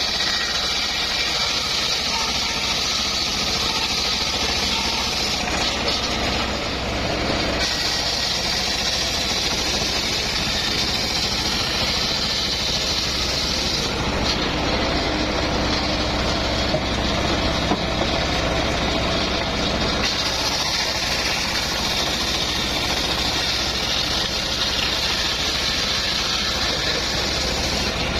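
Engine-driven homemade circular sawmill running steadily while its blade rips through mahogany, with a high cutting hiss. The hiss eases twice, at about 6 and 14 seconds in, and comes back at about 8 and 20 seconds.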